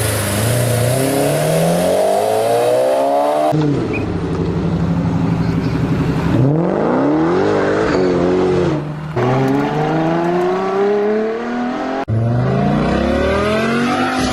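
Car engines revving and accelerating hard as several cars in turn pull away, the engine note climbing in pitch through each run. The sound changes abruptly from one car to the next.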